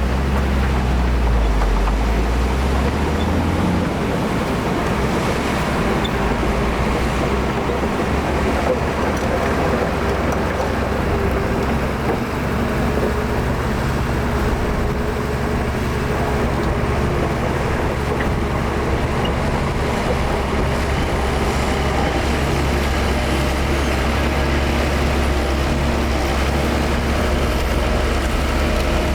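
Heavy diesel engine of earthmoving machinery running steadily under work, with a heavier low rumble in the first few seconds.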